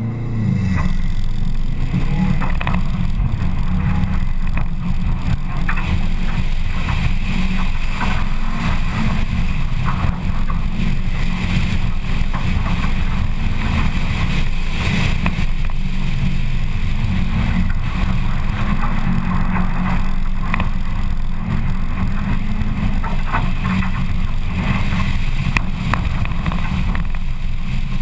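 Rallycross car's engine driven hard on a dirt course, its pitch rising and falling with throttle and gear changes, over tyre and gravel noise.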